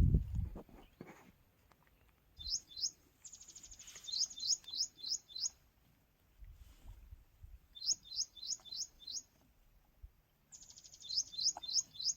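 A bird singing three phrases, each a run of quick rising whistled notes at about five a second, two of them opening with a fast buzzy trill. Low thumps in the first second.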